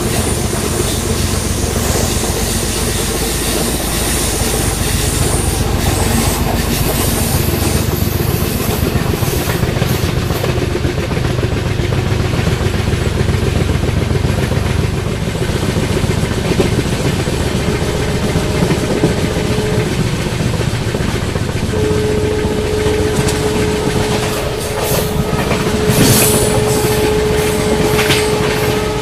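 An Indian Railways LHB passenger coach running at speed, heard from its open doorway: continuous rumble of wheels on rail. A steady mid-pitched tone comes in over the second half, and a cluster of sharp clicks sounds near the end.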